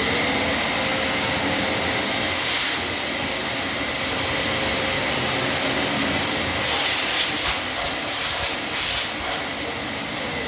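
Eureka Forbes Wet and Dry Ultimo 1400-watt vacuum cleaner running at full suction: a loud, steady rush of air with a high whine. From about seven seconds in, the sound swells and wavers briefly, then settles slightly lower.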